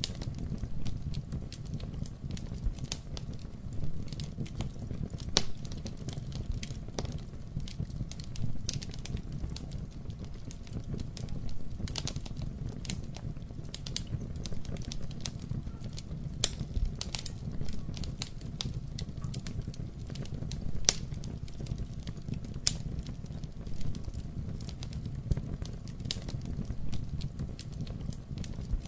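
Campfire burning, with a steady low rumble of flames and frequent irregular sharp crackles and pops of burning wood.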